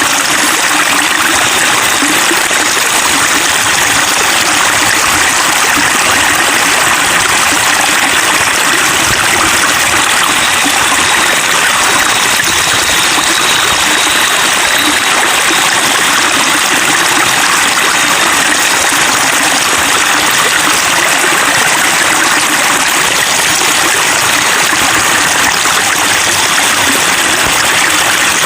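Water trickling and splashing in a steady, unbroken flow, like a small stream or fountain.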